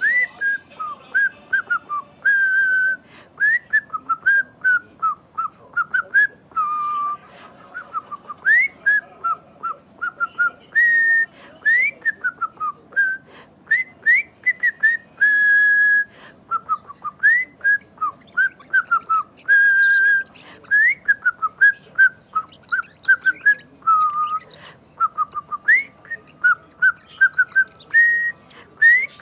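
A clear whistled tune of quick upward-sliding notes and short held notes, repeating phrase after phrase with brief pauses.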